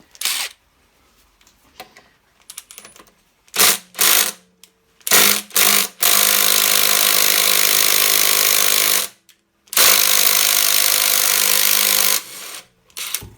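Impact wrench hammering on the flywheel nut of an old Honda generator engine to break it loose. It goes in several short blips, then two long runs of about three seconds each.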